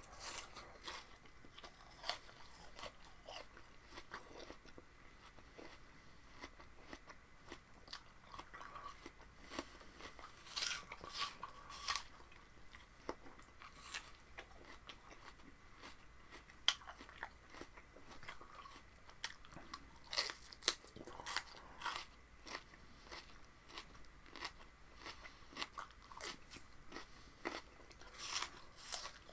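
A person biting and chewing raw vegetables close to the microphone: irregular crisp crunches, some louder clusters of bites among quieter chewing.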